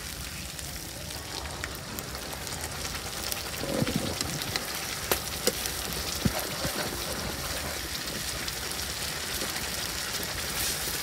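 Tomato purée frying in hot oil and masala in a steel kadhai, with a steady sizzle and fine crackling. A steel ladle stirring it knocks sharply against the pan a few times near the middle.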